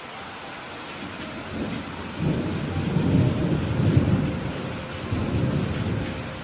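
Steady rain hiss with a rolling thunder rumble that builds about a second and a half in, peaks in the middle and fades away near the end.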